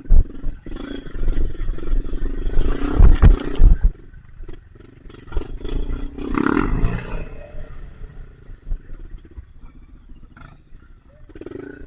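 Trail motorcycle engine revving hard in surges, loudest from about one to four seconds in and again around six to seven seconds, with a low rumble underneath.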